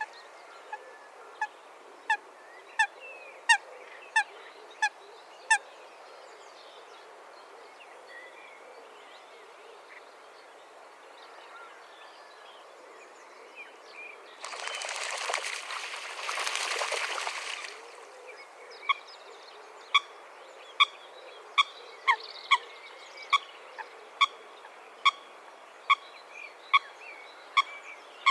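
Coot giving a series of short, sharp single-note calls, roughly one every half second to second, in two runs. Between the runs, in the middle, comes a few seconds of hissing noise.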